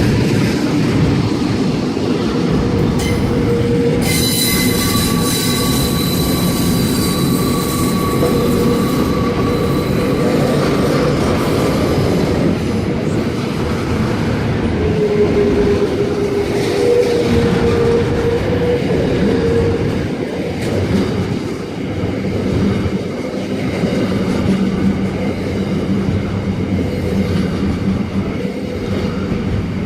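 Freight train running past, wheels clicking over rail joints with a steady rumble. The wheels squeal high-pitched a few seconds in and again past the middle.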